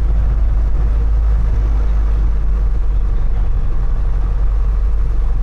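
Piper Cherokee 140's four-cylinder engine and propeller running steadily at low taxi power: a constant low drone heard from inside the cockpit.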